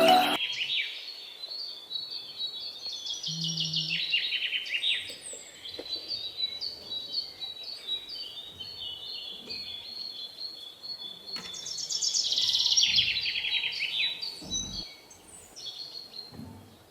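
Birds chirping and singing in quick trills of falling notes, in two louder bouts: one at the start and another about eleven seconds in, with softer chirps between.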